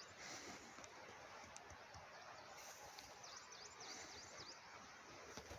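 A bird calling a quick series of about six short high chirps, each dipping and rising in pitch, starting about three seconds in, over faint outdoor ambience.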